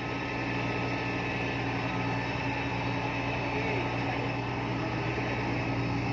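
Epiroc DM45 drill rig's diesel engine running steadily at a constant pitch.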